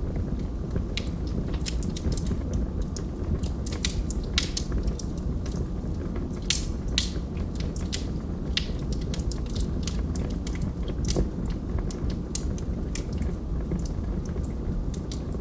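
Wood fire in a fireplace, logs burning with a steady low rumble and frequent irregular sharp crackles and pops.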